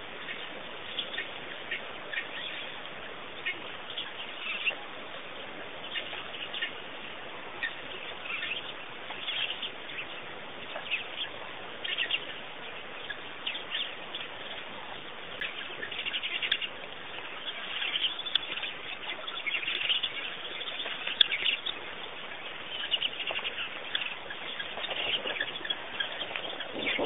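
Small birds chirping and calling over a steady hiss: many short sharp chirps, a few a second, growing busier and louder in the second half.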